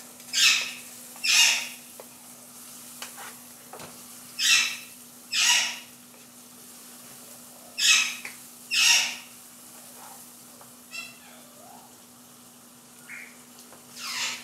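Wooden spatula stirring beef pieces and tomato masala frying in a pan: hissing, sizzling scrapes, mostly in pairs about a second apart, three times over, over a steady low hum. The masala is at the bhuna stage, being fried down before water goes in.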